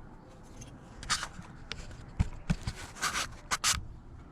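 Metal parts being handled and fitted together by hand: short scrapes, taps and clinks, a cluster of them about three seconds in.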